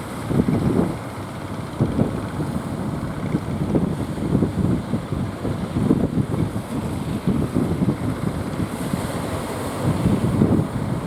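Strong wind buffeting the microphone, an uneven, gusty low rumble.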